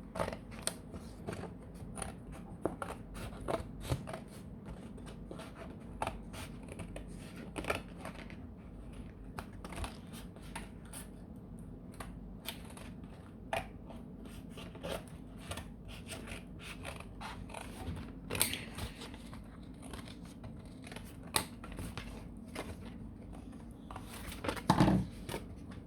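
Scissors snipping through cardboard in short, irregular cuts. A louder knock or clatter comes near the end.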